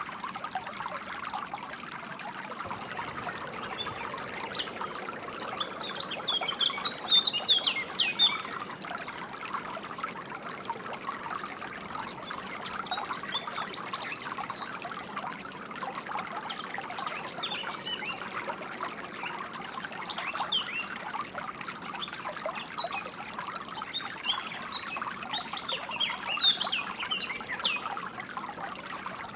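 Water trickling and flowing steadily, with birds chirping in clusters of short, quick high notes over it, busiest around five to eight seconds in and again in the second half.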